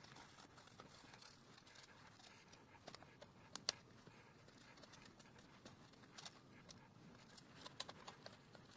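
Near silence with a few faint, scattered clicks and taps, the sharpest about three and a half seconds in.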